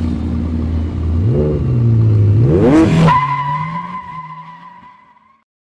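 Car engine revving, its pitch rising twice, then a high steady squeal like tyres skidding that fades away over about two seconds.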